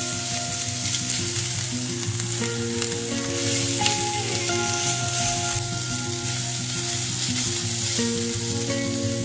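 Chopped onion and grated carrot frying in vegetable oil in a nonstick pan over medium heat, sizzling steadily while a spatula stirs and scrapes them.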